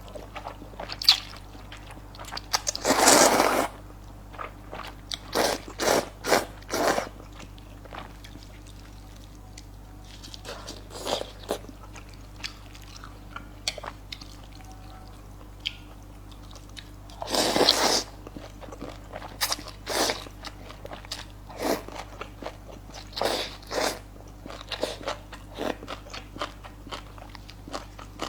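Close-miked eating of luosifen noodles: repeated biting and chewing with crunchy bites, and a few longer noisy slurps, the loudest about three seconds in and again around eighteen seconds.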